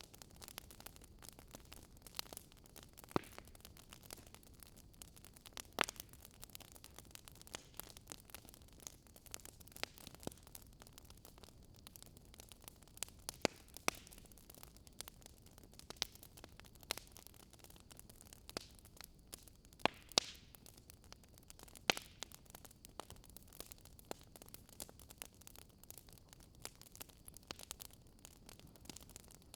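Wood fire crackling in a fireplace: irregular sharp pops and snaps over a faint, steady hiss, with a few louder pops scattered through it.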